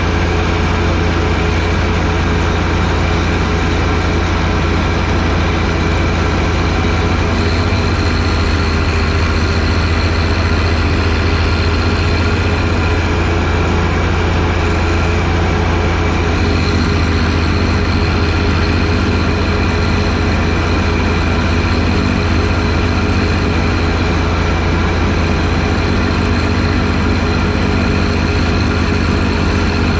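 John Deere 1025R sub-compact tractor's three-cylinder diesel engine running steadily under load while driving a front-mounted 47-inch snowblower, with a deep low hum and a higher whine that fades in and out.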